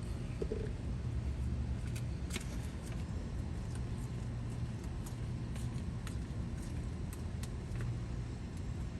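Steady low hum of vehicle traffic, with scattered faint light clicks.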